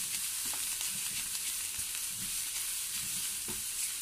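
Onion-and-spice masala with fresh coriander and green chillies frying in a pan, a steady sizzle, while a spatula stirs it with scattered scrapes against the pan.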